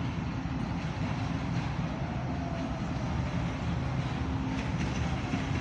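Train running on the rails: a steady low rumble with wheel and track noise, and a few faint falling whines.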